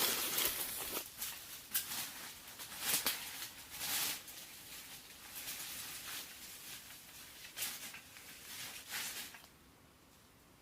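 Irregular rustling and crinkling handling noises, a string of uneven scrapes and crackles that stop about nine and a half seconds in.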